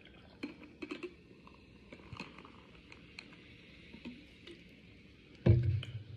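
Faint clicks and small rustles from handling and sipping a cup of iced drink, then one loud, low thump about five and a half seconds in.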